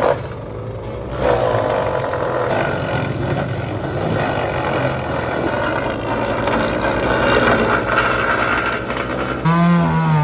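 MechMaxx wood chipper's engine running at working speed while brush and limbs are chipped, its pitch and level wavering as the load changes. About nine and a half seconds in, a clear steady pitched tone sets in over it.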